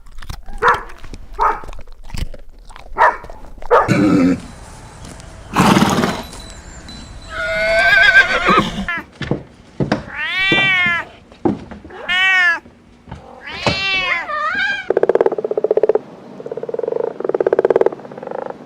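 A string of separate farm animal calls: several short calls, a long wavering call, then a cat meowing three times, each meow rising and falling. Near the end comes a rapid buzzing rattle.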